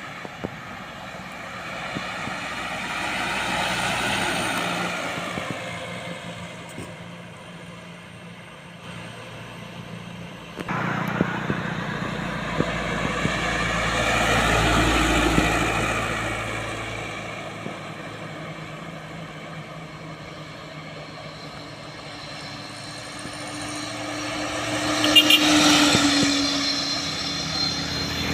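Road traffic passing close by, vehicles going past one after another, each swelling and fading. The first passes about four seconds in. A heavier one with a deep engine rumble follows from about eleven to sixteen seconds. The loudest passes near the end.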